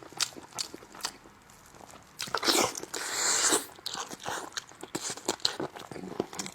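Close-up eating sounds of a person biting and chewing braised spicy lamb chops: many short clicks, with a louder stretch about two seconds in that lasts over a second.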